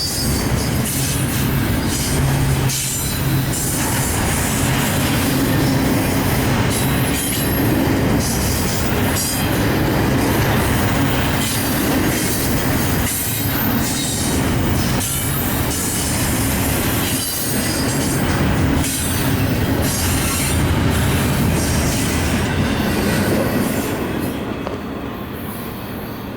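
Union Pacific freight train rolling past: steel wheels running over the rails with a steady rumble, repeated clacks and some wheel squeal. The sound falls away over the last couple of seconds.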